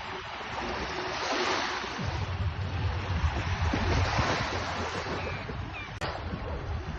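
Sea waves washing onto the shore, swelling twice, with wind buffeting the microphone as a low rumble.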